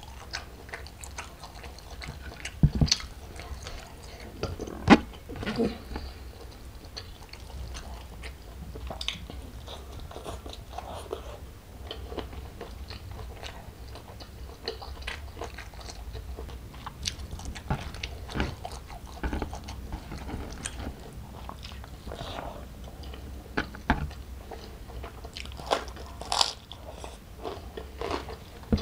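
A person chewing a full mouthful of rice and raw vegetables close to an ASMR microphone: wet mouth sounds and small crunches, with a few sharper crunches about three and five seconds in and again near the end.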